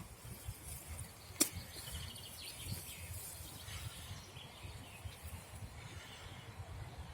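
Outdoor woodland ambience: a low fluttering rumble of wind on the microphone, with faint bird chirps and one sharp click about a second and a half in.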